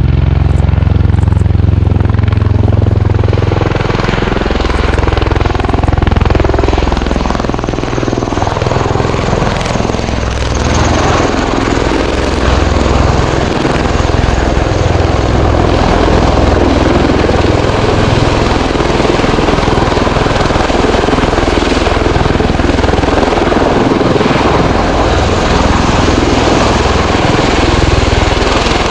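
Bell-Boeing CV-22B Osprey tiltrotor flying past, its twin proprotors and turboshaft engines loud and continuous, the pitch sliding up and down through the first ten seconds or so as the aircraft moves.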